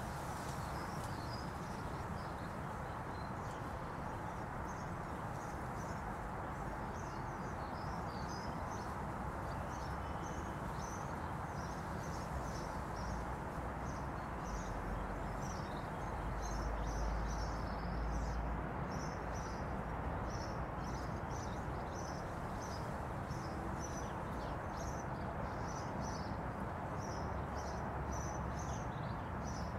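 Small birds chirping in quick, irregular bursts over a steady low background rumble, which swells briefly about halfway through.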